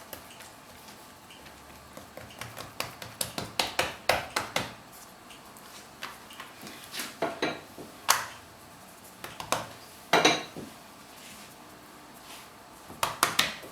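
Light clicks and knocks of kitchen utensils on a work surface, in several short clusters, as a stuffed paratha is sealed and rolled out with a rolling pin on a board.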